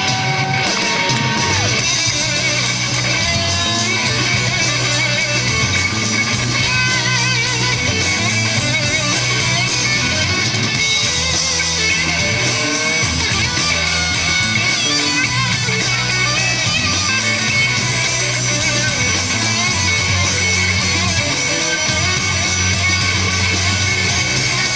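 Live rock band playing: electric guitar over bass and drums with a steady driving beat.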